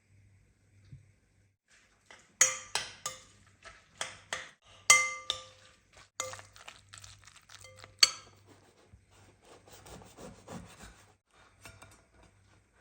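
Kitchen dishes and utensils clinking: a quick run of sharp, ringing clinks of china or glass, the loudest two about halfway and two-thirds of the way through. This gives way to a softer rubbing and scraping near the end.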